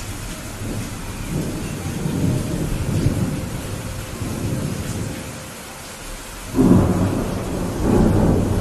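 Steady rain falling with thunder rumbling. A louder, sudden peal of thunder breaks in about two-thirds of the way through and keeps rolling.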